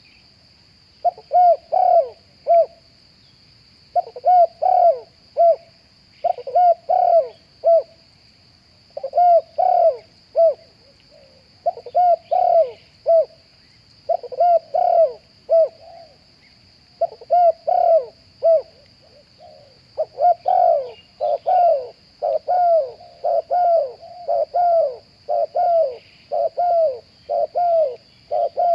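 Spotted dove cooing in short repeated phrases of several coos each, a phrase every second or two; in the second half the phrases come faster and close together.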